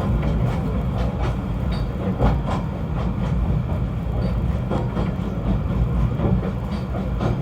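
Snowdon Mountain Railway rack-railway train running, a steady low rumble with irregular clicks and knocks.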